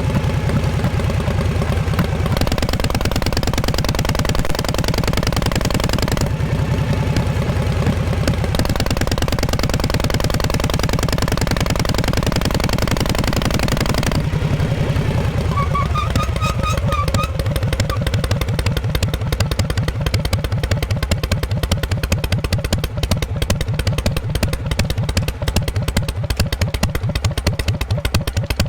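Exhaust of a 1948 Harley-Davidson Panhead V-twin running, a steady pulsing beat. The tone shifts about halfway through, after which the individual exhaust pulses stand out more separately.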